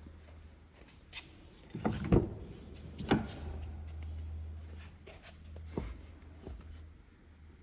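A few knocks and thumps, the loudest pair about two seconds in and another about three seconds in, with lighter clicks later, over a low steady hum.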